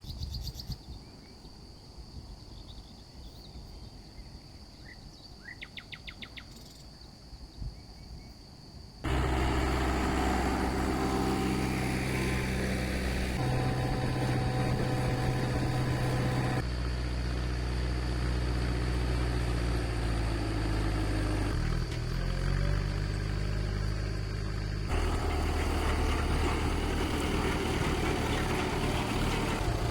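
Faint outdoor quiet with a few chirps, then about nine seconds in a tractor engine comes in suddenly and runs steadily. Its pitch and level jump abruptly a few times.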